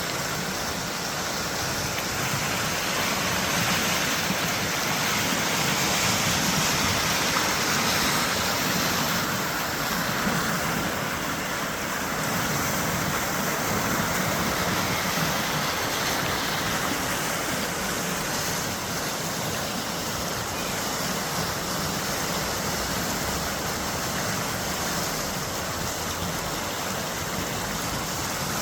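River in flood rushing, a steady, even noise of fast-moving water that does not let up.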